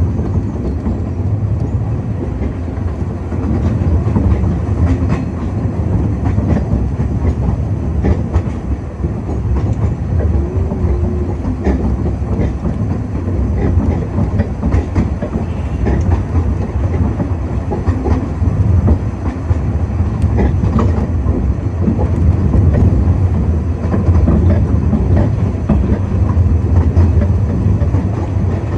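Narrow-gauge railway carriage running along the track: a steady low rumble with scattered wheel clicks over the rail joints.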